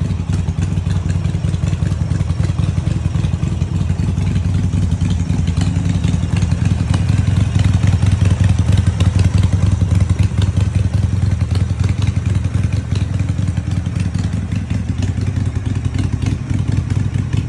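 Harley-Davidson Sportster's V-twin engine running steadily with a rapid, throbbing beat, a little louder about halfway through.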